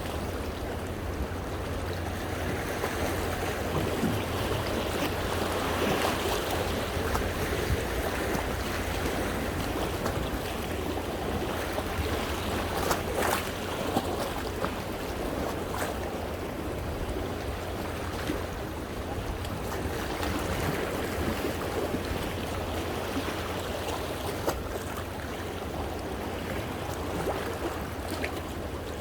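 Sea waves washing against coastal rocks, a continuous rush of surf and moving water that swells and falls every several seconds, with a few brief splashes.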